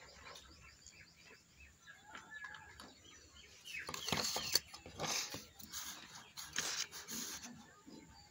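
Small birds chirping in the background. From about four to seven and a half seconds in, a run of several louder, short noisy sounds.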